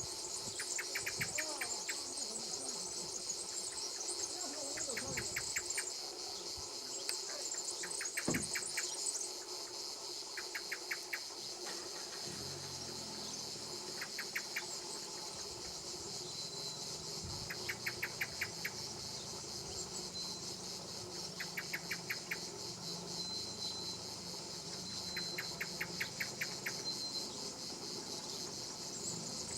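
Insects chirring: a steady high-pitched drone with short bursts of rapid clicking pulses repeating every second or two.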